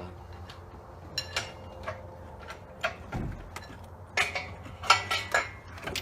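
Scattered metallic clanks and knocks, with a dull thump about three seconds in and a flurry of clanks near the end, as an engine is lifted and shifted into a car's engine bay.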